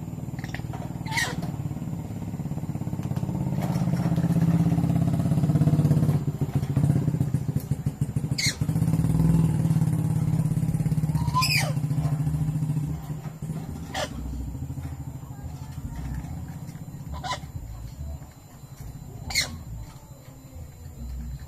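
A motorcycle engine runs, growing louder over the first few seconds and fading after about thirteen seconds. Over it a pet lory gives about six short, sharp calls, each dropping quickly in pitch.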